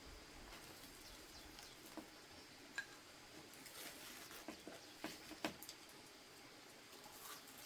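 Quiet eating sounds: faint, scattered small clicks and soft taps over a low background hush.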